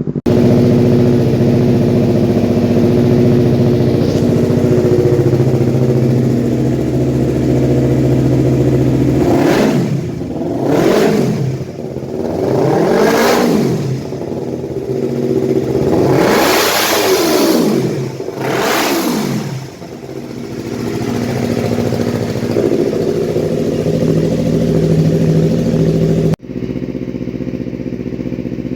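Kawasaki Ninja 250 fuel-injected motorcycle engine through an aftermarket exhaust, idling and then revved several times in quick rises and falls before settling back to idle. Near the end the idle abruptly changes to a quieter one.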